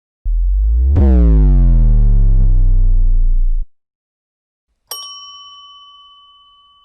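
Two stock sound effects. First a loud low boom-like drone about three seconds long, with a tone gliding downward in pitch through it, that stops abruptly. Then, about five seconds in, a single bright ding that rings out slowly.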